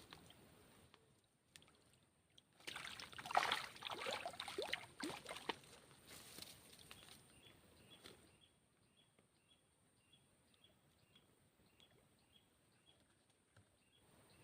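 Water splashing and sloshing for about four seconds, starting near three seconds in. After that, a faint high chirp repeats about twice a second.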